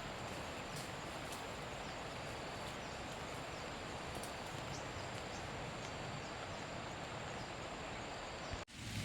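Steady, even rushing noise of the outdoor surroundings with a faint, continuous high tone above it. It cuts off abruptly near the end and gives way to a different, louder noise.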